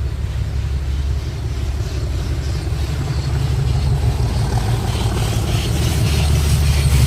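A train on the heritage line running with a steady low rumble that grows gradually louder, with a faint hiss and ticking building in the last couple of seconds.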